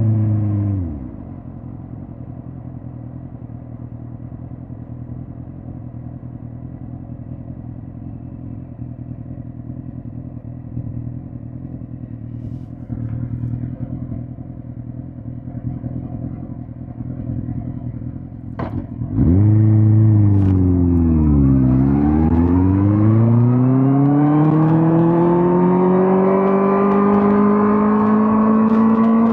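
2005 Suzuki GSX-R1000 K5's inline-four engine dropping to a quiet idle as the bike comes to a stop, idling steadily for about 18 seconds. Near the end a sharp click is followed by a sudden loud burst of engine sound, its pitch dipping briefly and then rising steadily through a long acceleration.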